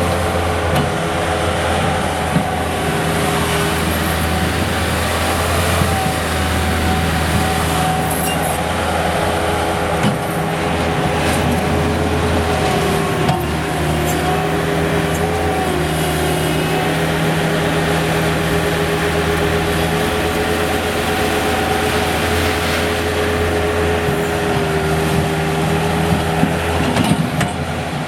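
Bobcat S185 skid steer's diesel engine running steadily, its pitch dipping slightly now and then.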